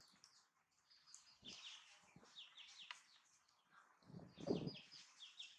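Small birds chirping in quick runs of short, falling chirps, faint, with a brief louder low sound about four seconds in.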